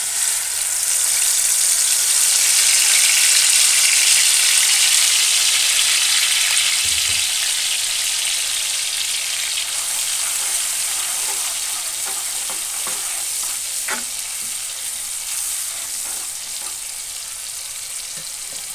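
Ground chili and garlic spice paste sizzling as it hits hot oil in a frying pan. The sizzle starts suddenly, swells over the first few seconds, then slowly dies down while a spatula stirs it, with a few taps of the spatula on the pan.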